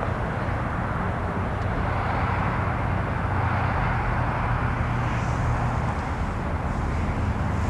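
Steady roar of aircraft jet engines with a low hum underneath, swelling slightly midway.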